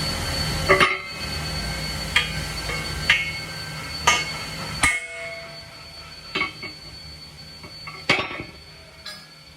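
Sharp metallic knocks on steel, about eight of them roughly a second apart, each ringing briefly. Under them runs a steady machine hum that drops away about five seconds in.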